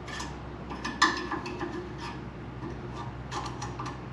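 Scattered small clicks and taps, the loudest about a second in and a quick run of them near the end, over a steady low hum.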